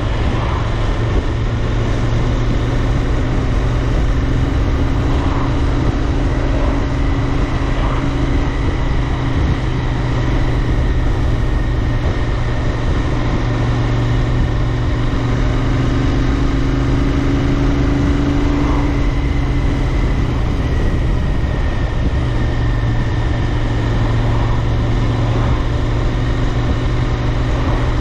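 Royal Enfield Interceptor 650's 648 cc parallel-twin engine running at a steady cruise, its note holding nearly constant, with wind rush on the bike-mounted microphone.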